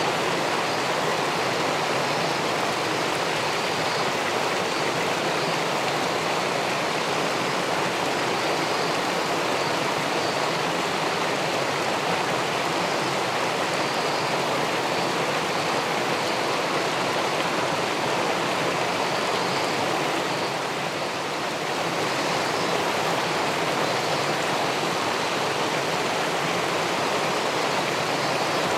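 Steady rush of river water pouring over a weir into the pool below, a continuous even splashing noise.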